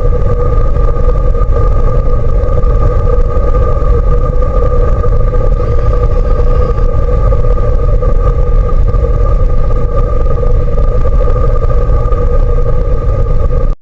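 Loud, steady low rumble with a constant two-tone hum, picked up through a roof-mounted camera dome on a vehicle. It stops abruptly at the end.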